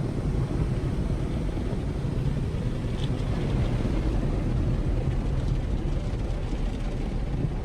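Automatic car wash running over the car, heard from inside the cabin: a steady rushing din of spray and machinery with a strong low rumble.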